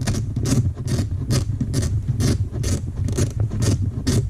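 Socket ratchet clicking in even strokes, about two a second, as a chaincase cover bolt is run out, over a steady low hum.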